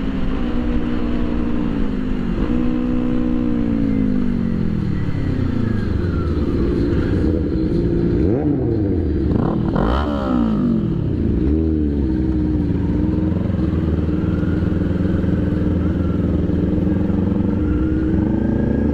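Sport motorcycle engine under way, its pitch sliding down over the first few seconds, then rising and falling several times around the middle with throttle and gear changes before settling to a steady cruise, over a constant rush of riding noise.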